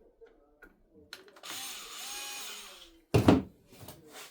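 A small electric screwdriver runs for about a second and a half, backing out a screw from the printer's plastic casing. A short, loud knock follows a little after three seconds in.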